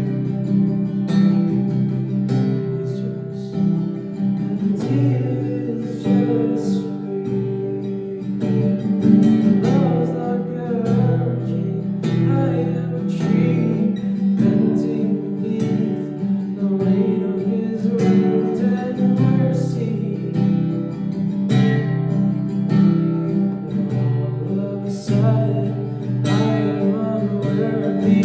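Acoustic guitar strummed steadily through worship-song chords, with a voice singing over it in places.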